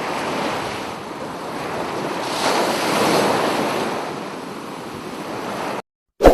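Sea surf washing onto the shore, swelling as a wave breaks about two and a half seconds in. It cuts off abruptly near the end, and a sudden loud strike starts just after.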